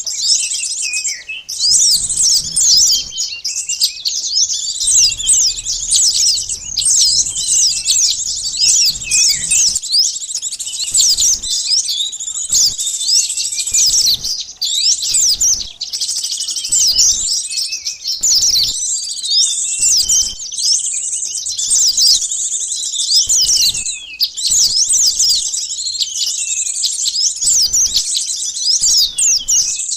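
Sunbird lure call: a dense, unbroken chatter of high, rapid chirps and twitters, as from several small birds at once, used to draw wild sunbirds in.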